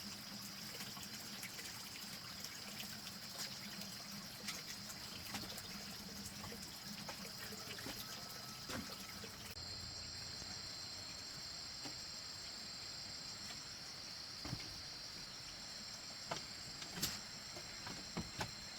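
Faint, steady trickle of running water, with a constant high hiss over it. There are scattered light knocks and taps, a few more near the end.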